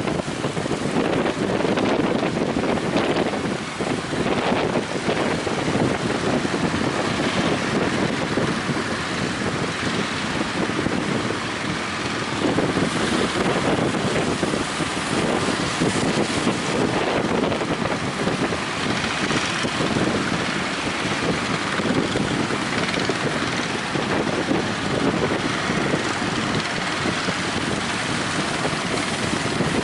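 Strong wind buffeting the microphone over steady surf from big waves on the shore, a continuous rushing noise.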